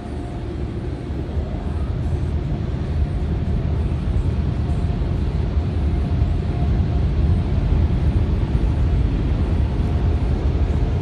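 Automatic car wash dryer blowers running: a loud, steady rush of air with a deep rumble, growing slowly louder.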